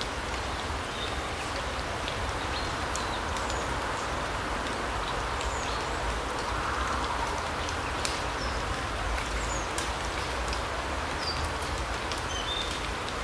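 Larch forest ambience: a steady rushing background with scattered short, high bird chirps and occasional light ticks.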